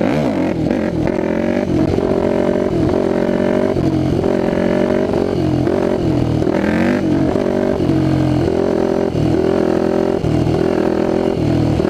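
2006 Yamaha WR450F's single-cylinder four-stroke engine, loud through a blown-out FMF slip-on exhaust that needs repacking, revving up and dropping back again and again as the supermoto is ridden.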